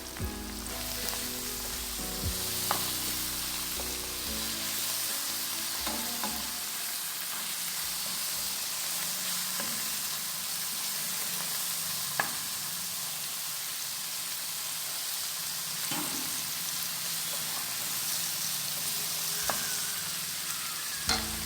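Onion-tomato masala with chilli powder sizzling in a hot pan as it is stirred, with a few sharp clicks of the spoon against the pan. Soft background music runs under it for the first few seconds, then fades.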